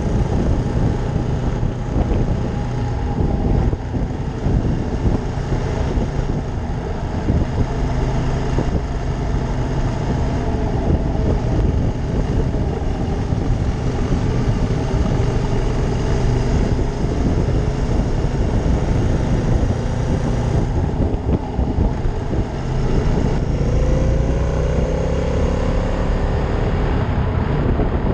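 Ducati Monster 620's air-cooled L-twin engine running while riding, mixed with heavy wind rushing over the microphone. Near the end the engine pitch rises as it accelerates.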